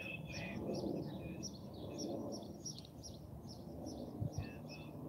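Small birds chirping, quick short high notes repeating over and over, above a low steady background rumble. Two soft low thumps about four seconds in.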